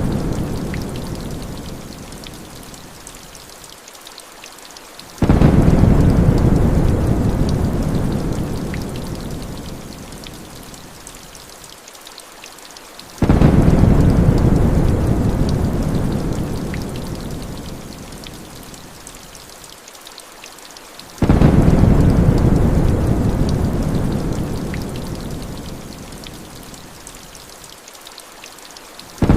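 Heavy rain falling steadily, with deep thunder rumbles that start suddenly about every eight seconds and die away over several seconds.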